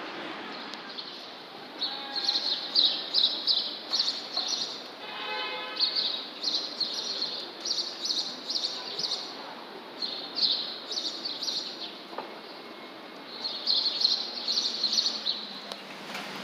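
Small birds chirping in quick clusters of high notes, over the steady background noise of a city street.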